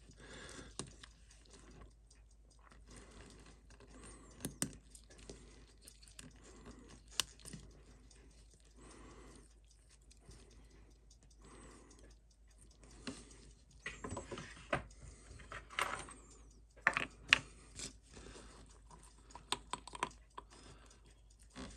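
Faint, scattered small clicks and taps of watchmaker's hand tools on a watch movement and the bench, sparse at first and coming more thickly in the second half.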